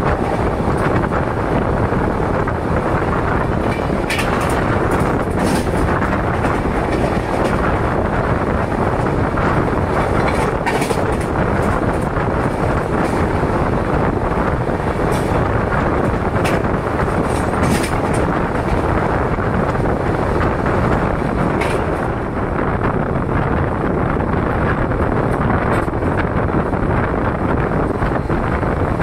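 Steady running noise of a moving passenger train heard from on board, with a few scattered sharp clicks.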